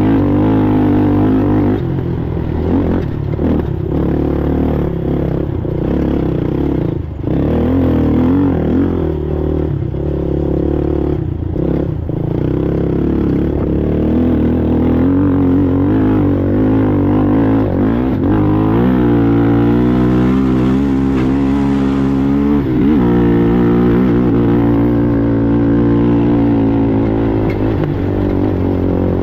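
Race ATV engine running hard, its pitch rising and falling as the throttle opens and closes, with a run of sweeping revs past the middle. Knocks and clatter from rough ground break in during the first half.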